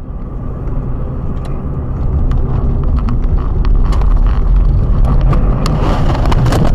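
A car driving: a loud low rumble of engine and road noise that builds over the first few seconds and then holds steady, with scattered sharp clicks and knocks throughout.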